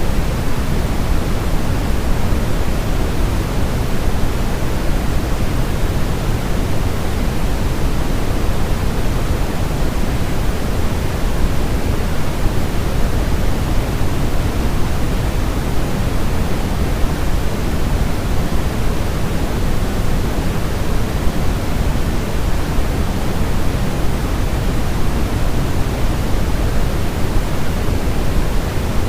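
Steady generated white noise for soothing a baby to sleep: an unchanging rushing hiss, heavier in the deep end than in the treble.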